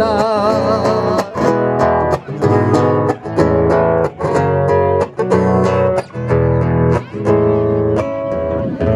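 Guitar strumming chords in a steady rhythm, an instrumental interlude in a Cuyo tonada. A sung note held with vibrato ends about a second in.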